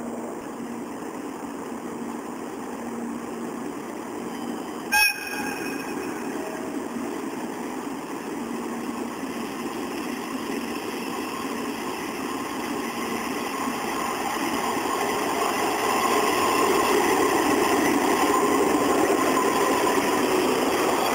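Locomotive-hauled overnight express train approaching, its running noise on the rails growing steadily louder, with one short horn blast about five seconds in.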